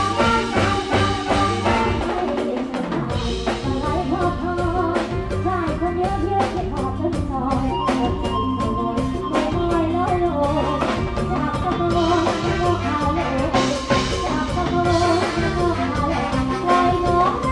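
Live band playing loud music over a PA: a steady drum-kit beat under melodic instruments, with singing.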